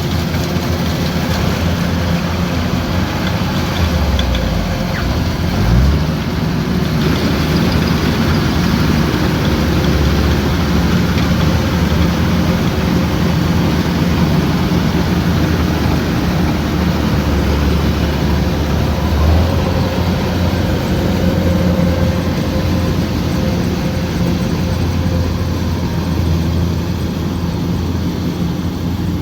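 Kubota combine harvester's diesel engine running steadily under harvesting load, with a brief rise in engine pitch about five seconds in.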